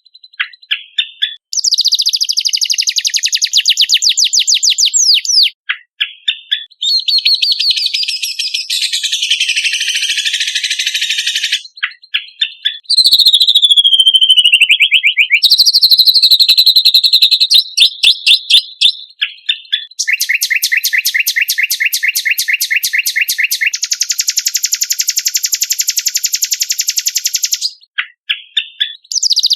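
Loud recorded songbird singing from a bird-tutoring (masteran) compilation: fast chattering trills and whistled phrases that switch abruptly every few seconds. Around the middle come sweeping downward whistles, and near the end long, very rapid trills.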